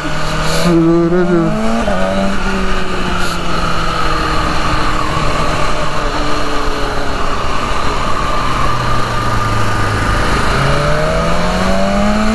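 BMW S1000RR's inline-four engine rising in pitch as the bike accelerates about half a second in, easing slowly lower through the middle, then rising again near the end.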